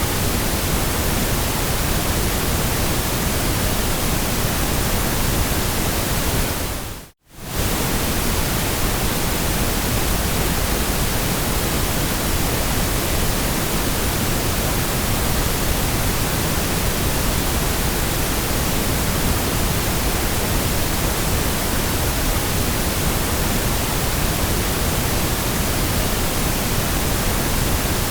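Steady, even white-noise hiss spread across all pitches, dipping abruptly to silence about seven seconds in and fading back up within a second.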